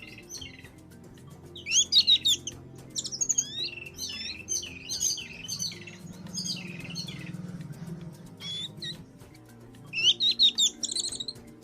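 Small birds chirping and singing in repeated bursts of quick, high, fast-changing notes, with short pauses between bursts, over soft background music.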